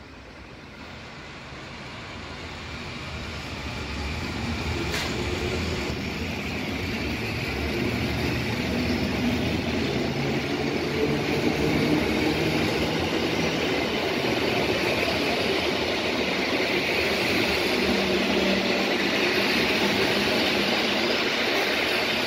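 EN57 electric multiple unit, two units coupled, running past along the platform: the steady rumble of steel wheels on the rails with a hum from the traction motors. It gets louder over the first few seconds and then stays loud. A single sharp click comes about five seconds in.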